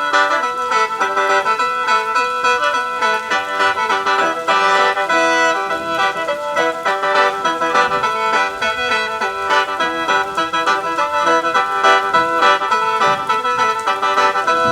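Khaen, the Lao and Isan bamboo free-reed mouth organ, playing a quick melody over steady held drone notes.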